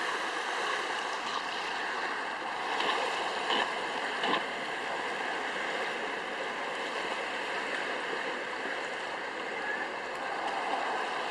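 Steady rushing of wind and water, with a few brief knocks about three to four seconds in.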